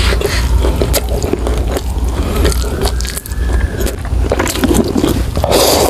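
Close-miked chewing and biting of a mouthful of kimchi ramen noodles and beef steak, with wet mouth clicks over a steady low hum. A louder noisy burst comes near the end.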